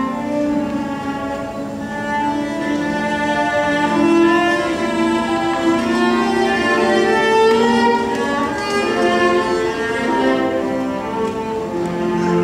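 Bowed string music: long held notes in several overlapping parts, with low cello-range lines prominent.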